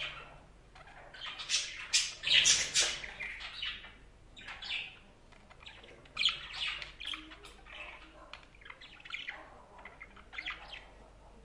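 Budgerigars chirping and squawking in quick, irregular bursts, loudest in a dense run of calls about two to three seconds in.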